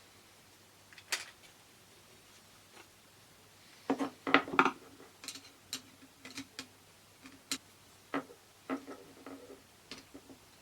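Sharp clicks and light taps of small parts being handled as a car's instrument cluster is taken apart, with a quick run of louder clacks about four seconds in.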